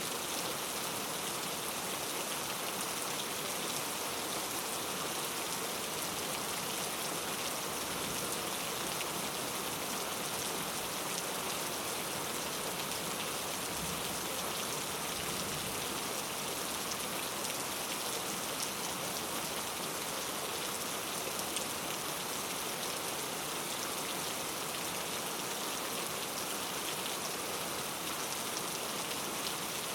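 Steady rainfall in a rainforest: dense, even patter of raindrops on foliage and the ground.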